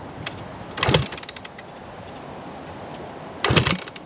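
A 150cc dirt bike being kick-started twice, about a second in and again near the end: each kick spins the engine over briefly with a clack from the kick-start lever, and it does not fire.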